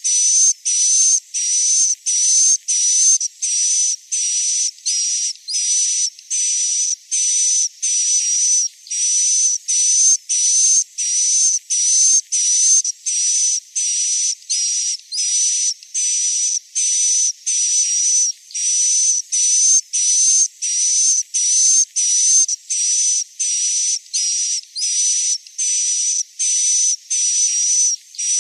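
Recorded swiftlet calls played as a roosting lure for a swiftlet house: an unbroken string of short, high chirps, nearly two a second, each carrying a steady high whistle.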